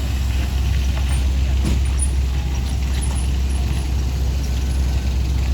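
Heavy vehicle engine running with a steady low rumble.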